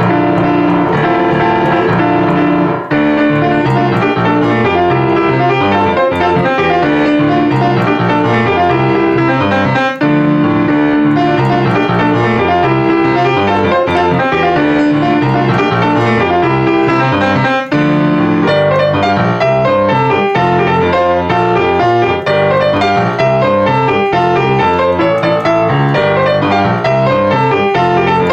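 Solo piano playing a fast, busy passage with dense repeated chords and running notes, loud and continuous, with a few brief breaks between phrases.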